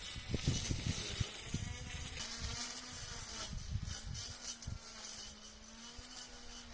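Cordless battery string trimmer running with a steady buzzing whine while cutting overgrown grass, with irregular low thumps alongside.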